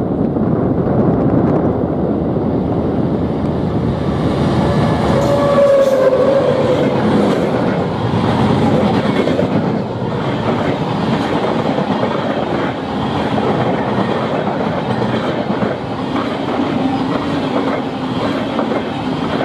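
Express passenger train hauled by a WAP-7 electric locomotive passing close by at speed: a loud, steady rumble and rush of wheels on rail with clickety-clack over the rail joints. A brief squeal comes about five seconds in.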